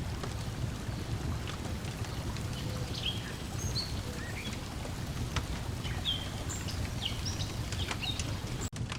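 Lakeside ambience: water lapping in a steady low wash, with the sharp clicks and pops of a crackling wood fire and short, scattered bird chirps. The sound cuts out for an instant near the end.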